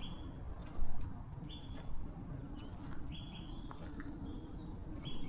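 A bird calling in short, flat whistled notes repeated every second or so, with one higher note about four seconds in, over a steady low rumble. A brief low thump about a second in is the loudest sound.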